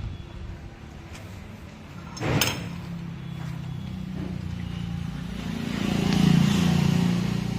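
A motor vehicle's engine, growing louder to a peak about six seconds in and then fading. About two seconds in there is a short, sharp clatter.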